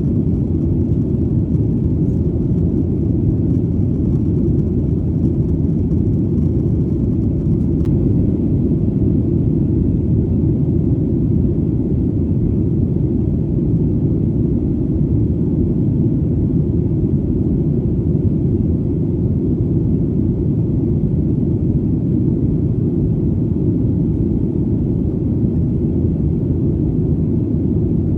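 Steady low airplane engine rumble, a deep even drone that does not change in pitch or loudness.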